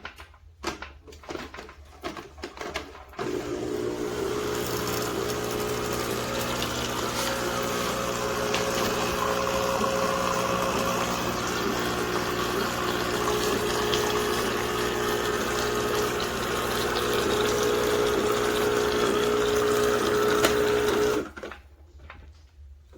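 Neretva 15-bar espresso machine's pump running with a steady, even hum and hiss for about eighteen seconds, then cutting off abruptly. A few clicks and knocks come just before it starts.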